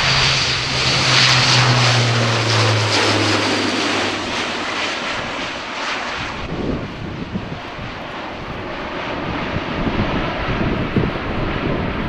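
Airbus A400M's four Europrop TP400 turboprop engines and propellers running loud, with a low propeller drone that sinks slightly in pitch over the first few seconds, after which the sound turns duller.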